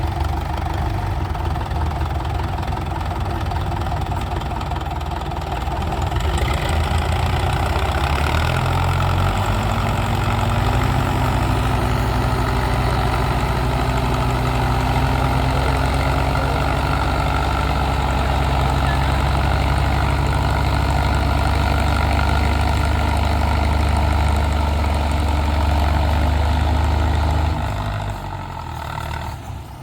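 Tractor engine running. It picks up a few seconds in and holds a steady, louder note, then drops away shortly before the end.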